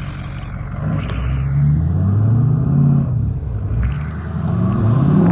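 Pit bike engine revving up and down several times as it rides, its pitch rising and falling in long sweeps.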